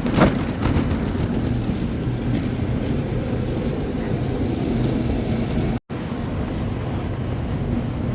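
Passenger train moving along a station platform: a steady low rumble that cuts out for an instant just before six seconds in.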